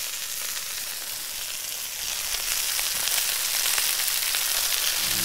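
Steaks and sliced potatoes sizzling in a black frying pan over campfire coals: a steady frying hiss with a few small pops, getting a little louder about two seconds in.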